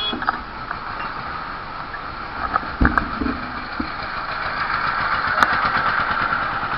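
Steady vehicle and road noise, with a low thump about three seconds in and a sharp click about five and a half seconds in.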